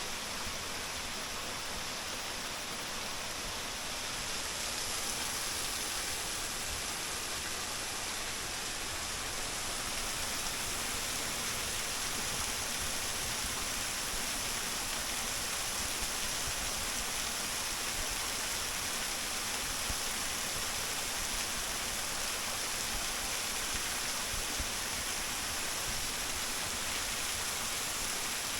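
Small waterfall with a thin flow, about 5 m high, pouring steadily into a mountain stream: an even, hissing splash of water.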